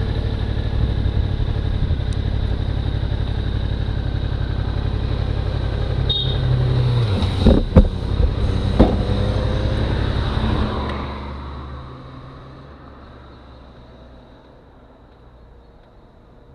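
Suzuki V-Strom motorcycle running on the road with wind on the microphone, a few sharp knocks around the middle, then the engine and wind sound fall away about eleven seconds in as the bike slows and stops.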